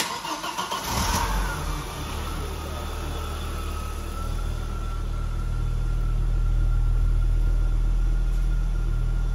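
1992 Audi S4's turbocharged 2.2-litre inline-five on a cold start: the starter cranks it for about a second, then it catches and settles into a steady idle. A thin high whine runs through the idle, which grows slightly louder midway.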